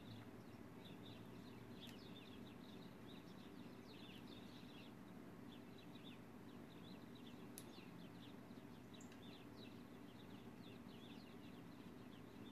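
Faint chirping of small birds, many short high chirps in loose clusters, over a low steady hum.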